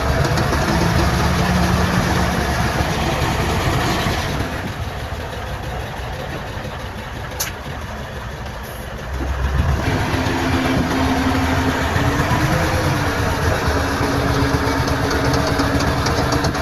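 Diesel engines of heavy earthmoving machinery running steadily. The sound eases off for about five seconds in the middle, with a single sharp click, then rises again with a steady hum.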